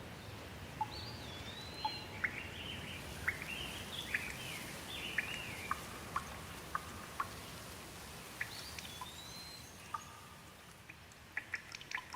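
Steady rain with a songbird singing over it: a run of whistled, sliding notes about a second in and a shorter phrase about eight seconds in. The rain thins near the end, leaving sharp drips.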